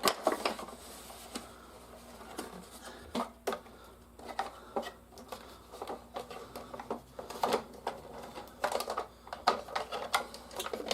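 Hard plastic toys being handled and moved about, making irregular clicks, clacks and light knocks.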